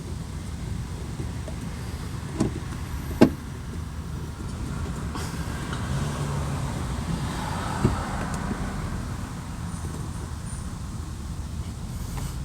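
Three sharp clicks and knocks from work on a car's interior door panel and its screws, over a steady low rumble.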